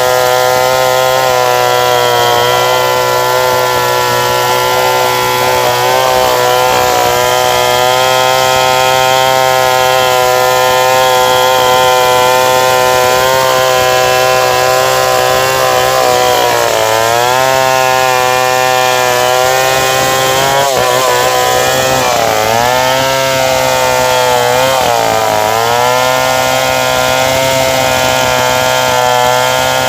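Stihl 070 two-stroke chainsaw running steadily at high speed, its pitch sagging and recovering several times in the second half as it is loaded in the cut.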